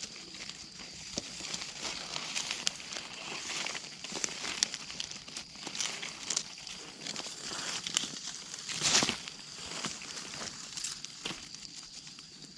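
Dry leaves and undergrowth rustling and crackling in irregular bursts, as if being handled or brushed through, with a louder rustle about nine seconds in.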